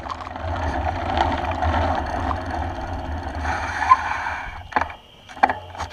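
Wind and riding rumble picked up by a bike-mounted action camera. The rumble dies down about four and a half seconds in, and a few sharp clicks follow.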